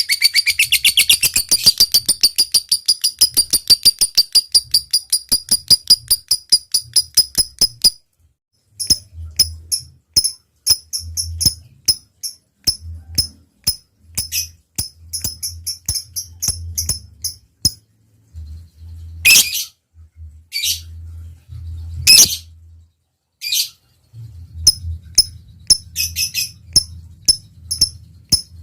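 Lovebird singing: a long, fast chatter of evenly repeated sharp notes (the 'ngekek') that fades out about eight seconds in. It gives way to scattered ticking clicks and short high chirps, with two louder shrill calls in the last third.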